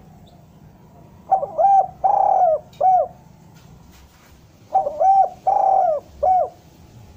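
Spotted dove (derkuku) cooing: two phrases of about four coo notes each, one in the first half and one in the second half.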